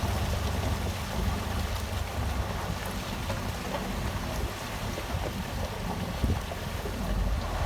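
Heavy construction machine's diesel engine running with a steady low rumble, with scattered light knocks and clatter over it.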